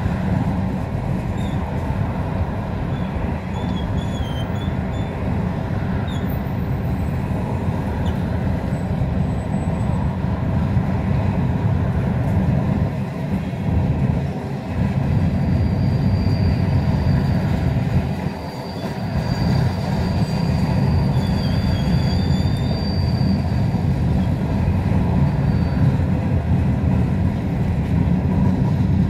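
Freight train's gondola cars rolling past with a steady, heavy rumble of steel wheels on rail. A thin, high wheel squeal rings out for several seconds about halfway through, with brief wavering squeals earlier and near the end.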